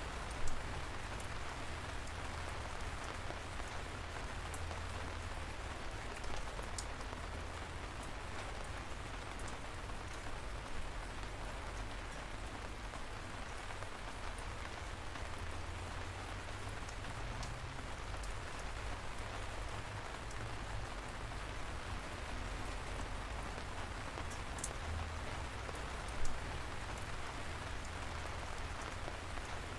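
Steady light rain falling, an even hiss with scattered close drops tapping, two of them louder, about half a second in and near the end.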